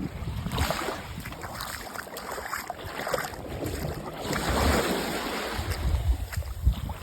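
Waves washing in, swelling and falling back twice, with wind buffeting the microphone as a low rumble.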